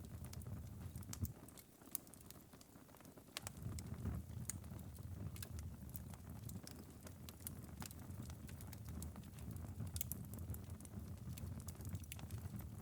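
Embers of a long-burning wood fire in a fireplace crackling: scattered sharp ticks and pops over a low steady rumble, which drops away briefly about two seconds in before returning.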